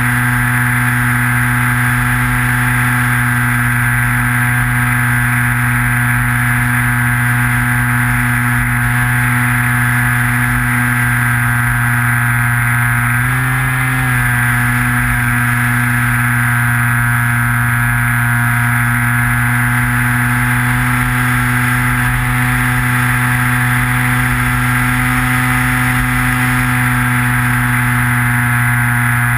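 Electric motor and propeller of a Skywalker FPV model plane, recorded by the camera on board: a steady whine with wind buffeting underneath. About halfway through, the pitch dips briefly and comes back.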